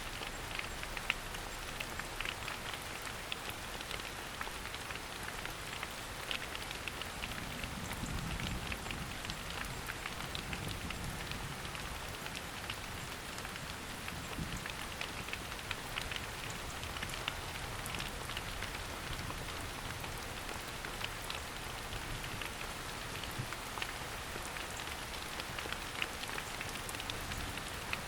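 Steady rain falling through forest foliage, with many small drops pattering and dripping close by.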